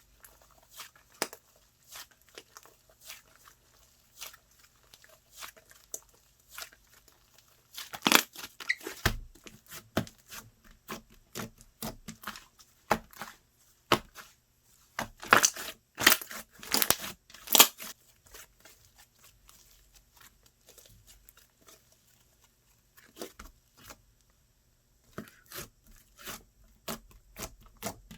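Slime being pressed, stretched and folded by hand, giving a string of small sticky pops and clicks. Louder, denser flurries come about eight seconds in and again around fifteen to seventeen seconds.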